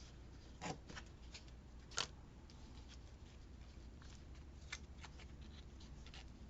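Faint rustling and small clicks of paper and washi tape being handled on a planner page, the sharpest click about two seconds in.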